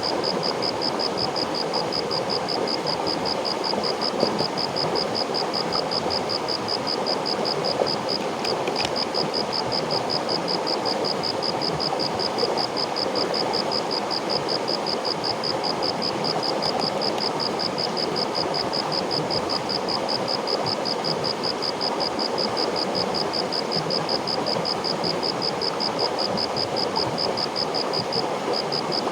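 River water flowing steadily. Over it runs a high-pitched, evenly pulsing chirp, several pulses a second, that breaks off briefly twice.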